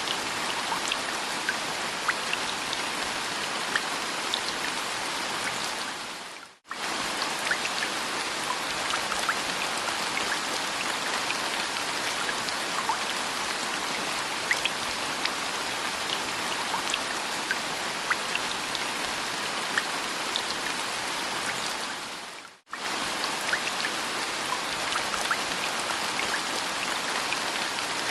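Steady rain falling, with individual drops ticking on a hard surface. The sound fades out and straight back in twice, about sixteen seconds apart, like the seam of a looped rain recording.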